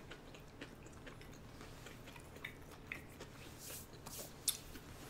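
Soft chewing of sushi with small scattered mouth clicks. A brief dry rustle of hands rubbing together comes near the end, followed by a sharper click.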